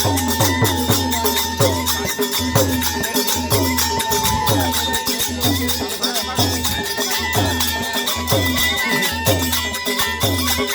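Alghoza, the Rajasthani double flute, playing a folk melody in long held notes over a steady drum beat of about two strokes a second.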